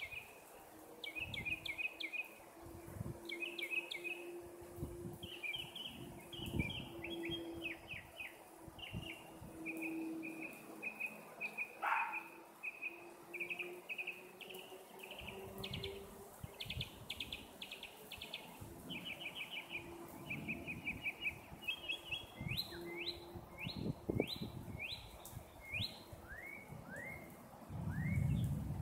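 Birds chirping and singing outdoors, in quick repeated series of notes, with a few downward-sliding calls near the end. A faint steady low hum sits underneath for the first half, and there is a brief low rumble just before the end.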